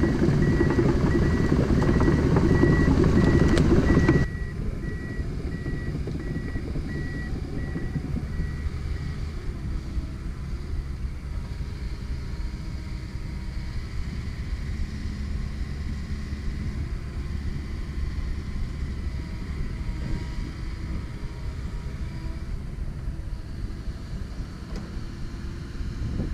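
Komatsu PC170LC-10 excavator running, loud for about the first four seconds with a repeated high-pitched beep. It then drops suddenly to a quieter, steady engine sound.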